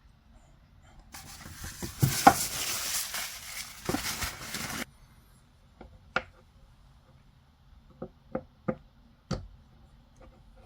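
Packaging being handled as a box is opened: about four seconds of rustling and scraping, then five separate short, sharp taps or knocks.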